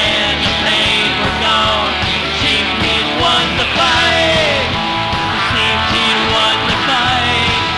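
Rock band playing live: electric lead guitar soloing with bent, sliding notes over bass guitar and drums.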